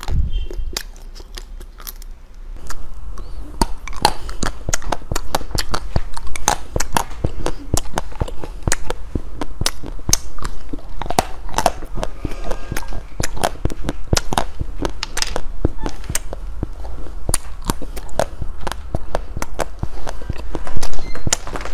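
Crunching and chewing of candy in the mouth: a dense run of crisp cracks and bites, starting a couple of seconds in after a quieter start.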